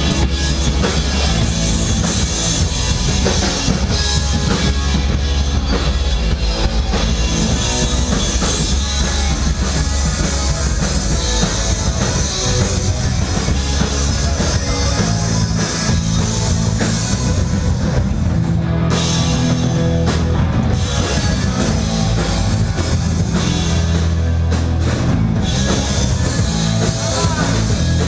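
Punk rock band playing live, with a driving drum kit under the full band in an instrumental passage without singing.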